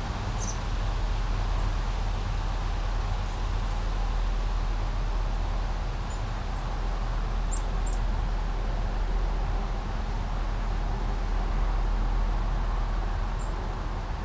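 Small brook flowing steadily over a constant low rumble, with a few short, high bird chirps: once about half a second in, a cluster around six to eight seconds in, and once near the end.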